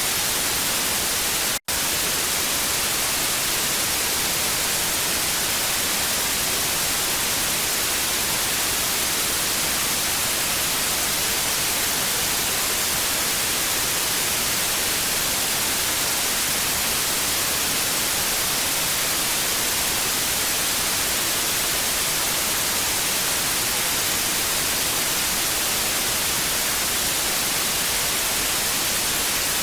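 Steady TV static hiss, an even noise brightest in the high end, with no tones or rhythm. It cuts out for an instant about a second and a half in, then carries on unchanged.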